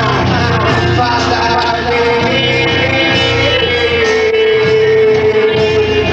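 Rock band playing live: dense, loud electric guitars over bass and drums, with one long held note through most of the stretch.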